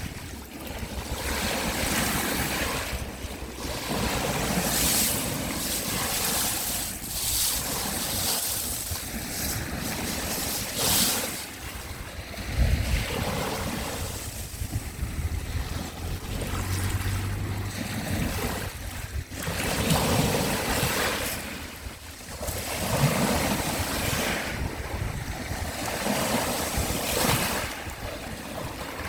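Sea waves washing onto the shore, surging and falling back every few seconds, with low wind rumble on the microphone.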